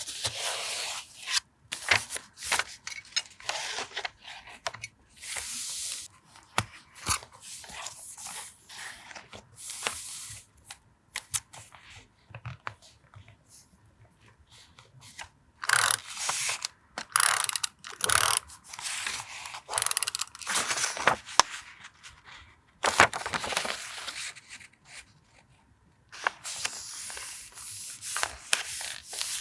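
Paper being handled for a journal collage: irregular bouts of rustling, rubbing and tearing of paper, with a couple of quiet pauses.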